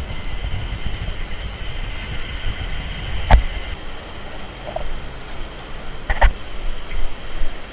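Typhoon wind buffeting the microphone in a steady low rumble, with two sharp knocks, one about three seconds in and another about six seconds in.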